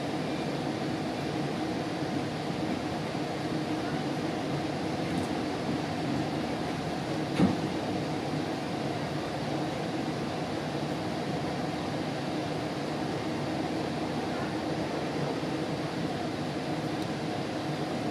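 Steady running noise inside a GO Transit bilevel commuter coach moving along the track, a rumble with a low steady hum. One sharp knock sounds about seven seconds in.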